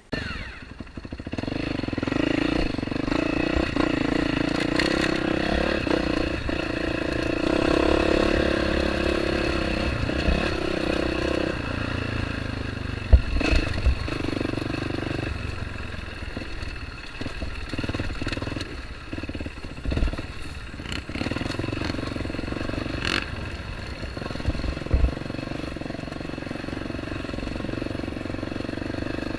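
Dirt bike engine running on a trail, its pitch rising and falling as the throttle is worked, with several sharp knocks and clatter from the bike over rough ground.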